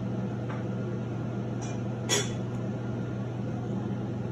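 Steady low hum of room tone, broken about two seconds in by one short, sharp click or tap.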